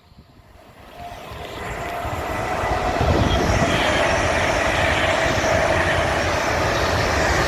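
Fast train passing through a station at speed without stopping: a rushing rumble that builds over the first three seconds, then holds steady and loud.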